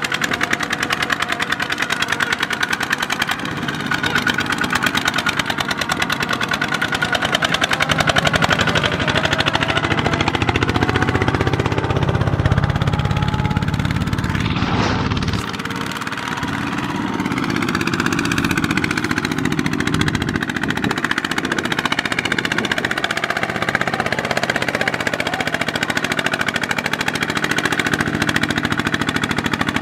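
Two-wheel walking tractor's single-cylinder diesel engine running hard and continuously. Its engine speed rises and falls in the middle.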